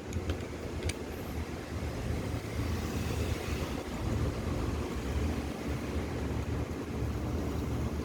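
Steady low mechanical rumble of a running machine, with a few faint clicks.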